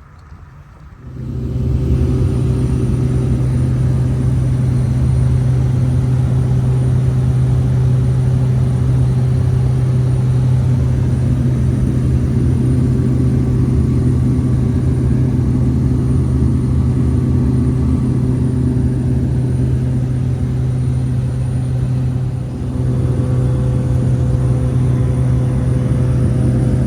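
Light propeller aircraft's engine running with a loud, steady drone, coming in sharply about a second in, with a brief dip about 22 seconds in.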